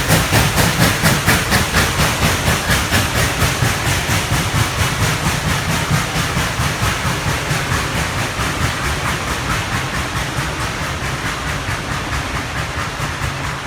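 Narrow-gauge steam locomotive working, its exhaust chuffing in a quick, even rhythm over the rumble of the train, slowly fading as it draws away.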